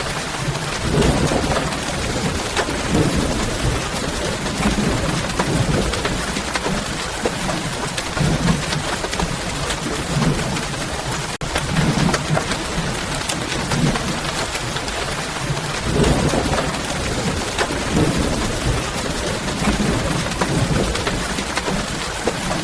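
Steady, even rain falling, with recurring low rumbling swells underneath every second or two. There is a momentary dropout about halfway through.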